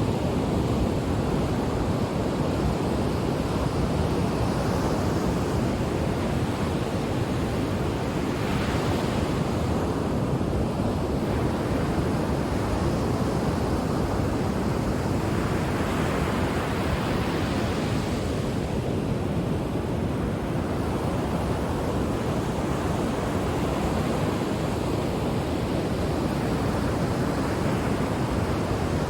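Ocean surf washing onto the shore in a steady roar, with a few gentle swells as waves break and rush up the beach.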